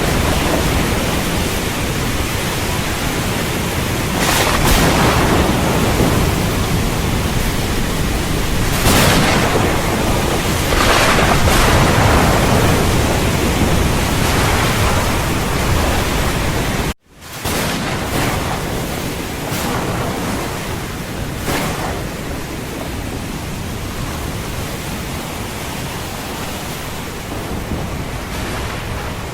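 Steady heavy rain with several brief swells of thunder. The sound cuts out for an instant a little past halfway, then comes back.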